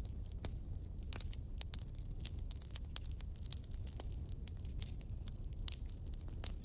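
Wood fire crackling: irregular sharp snaps and pops several times a second over a steady low rumble of burning.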